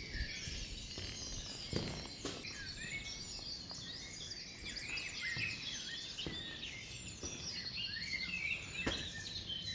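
Several songbirds singing at once, a busy chorus of quick high chirps and trills, with a few short knocks.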